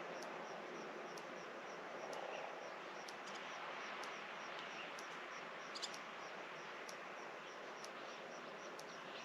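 Countryside evening ambience: a steady hiss with a small high chirp repeating two or three times a second, and a brief bird call about six seconds in.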